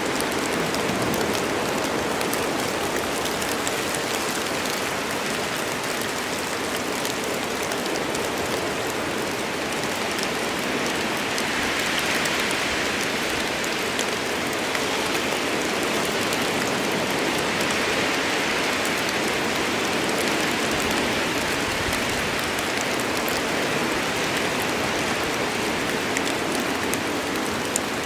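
Steady rain falling in a forest, a continuous hiss with many small drop patters on leaves and surfaces.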